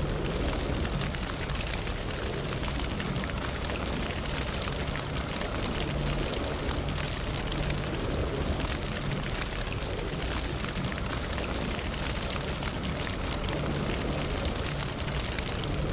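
Campfire burning, with a steady hiss and low rumble of flames and many small crackles and pops from the burning wood.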